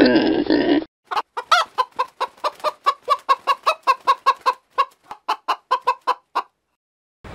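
A chicken clucking: a quick run of short clucks, about four a second, for roughly five seconds, then stopping.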